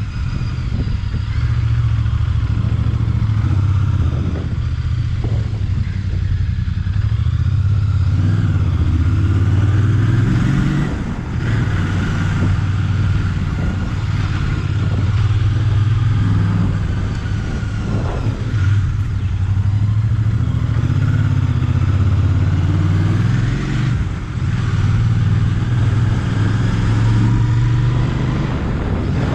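Royal Enfield Bear 650's 648 cc parallel-twin engine running under way, heard onboard. The revs climb and then drop sharply several times as the rider works the throttle and gears.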